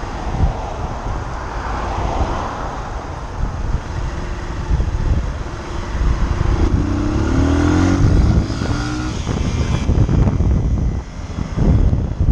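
Motorcycle riding on the road with heavy wind buffeting on the microphone and traffic around; about seven seconds in, an engine note rises in pitch as it speeds up.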